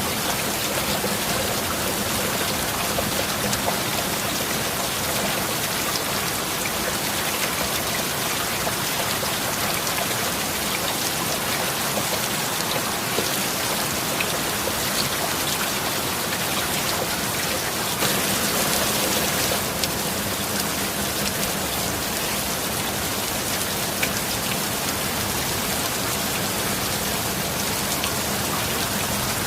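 Steady heavy rain, a constant hiss with many individual drops ticking through it. The hiss briefly swells about two-thirds of the way in.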